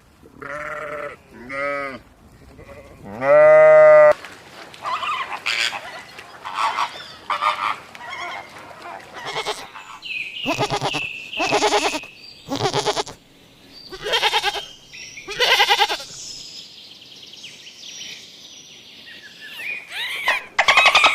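Animal calls: a few wavering bleats in the first four seconds, then a string of short, higher-pitched calls and cries, one every second or so, with louder calls near the end.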